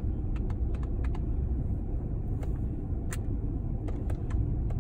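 Freight train of tank cars rolling past a crossing, heard from inside a car: a steady low rumble with scattered sharp clicks and clanks from the wheels and couplings.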